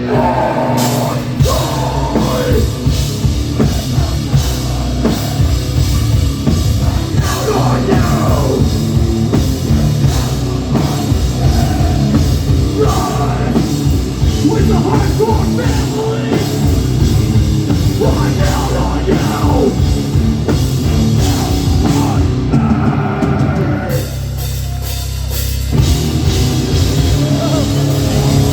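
Hardcore punk band playing live and loud: pounding drum kit, distorted guitars and bass. Near the end the drums drop out for about two seconds, leaving a low ringing chord, before the full band crashes back in.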